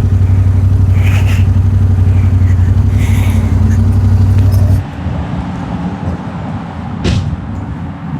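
Yamaha Tenere 700's parallel-twin engine running at a steady pitch with road noise, then dropping off abruptly about five seconds in to a much quieter running sound, with a short knock near the end.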